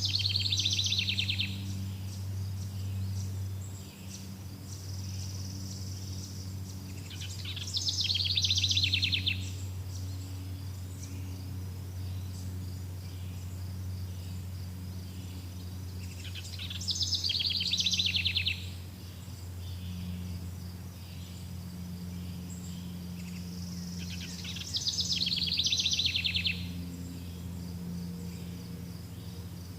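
A songbird sings the same short song four times, about every eight seconds: a high note dropping into a fast trill, each about two seconds long. Under it run a steady low hum and a faint, steady high-pitched buzz.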